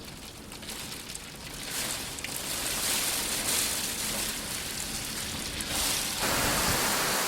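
Sleet and freezing rain coming down in strong wind, an even rushing noise that grows louder about six seconds in.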